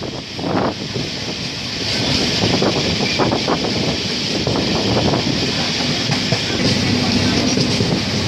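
Passenger train running, heard from inside a moving carriage: a steady rush of wheel-and-rail noise and wind, with many small clicks and rattles.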